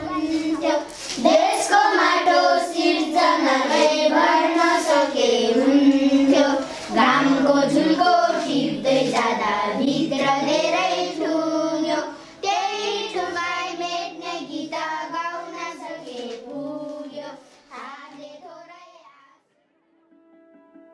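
A group of children singing together, with sharp claps running through the song; the singing fades out near the end.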